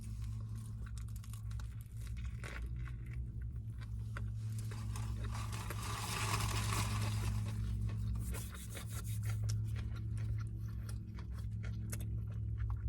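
Close-up sounds of someone biting and chewing a Subway sub sandwich: soft irregular crunching and mouth clicks, over a steady low hum.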